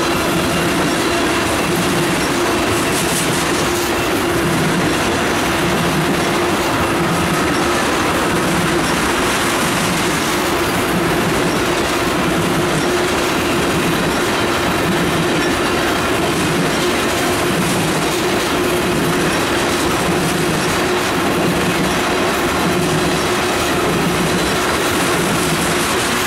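Freight train of ethanol tank cars rolling past close by: steel wheels clattering over the rails, with a low beat that repeats about every second and a half and a steady ringing tone over the rolling noise.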